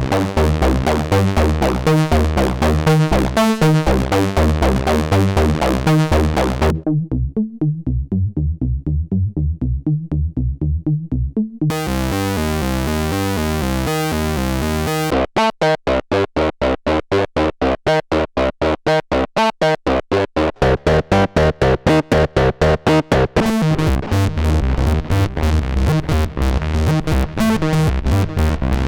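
Roland SE-02 analog monosynth playing a fast repeating sequenced bass pattern, switching to a new factory preset every few seconds, so the tone changes abruptly several times. One patch, from about 7 to 12 seconds in, sounds dark and muffled; from about 15 seconds in, the notes are short and clipped.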